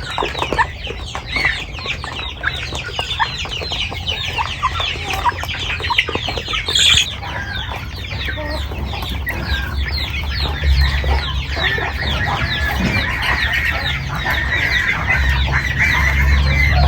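A flock of chickens clucking and calling continuously, many short falling calls overlapping, with a low rumble underneath that grows in the second half.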